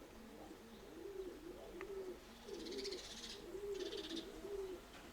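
Domestic pigeons cooing, a steady run of overlapping rolling coos. Two brief higher rustles come about halfway through, the second one shorter.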